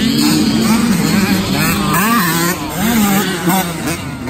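Dirt bike engines revving, the pitch rising and falling repeatedly as the throttle opens and closes.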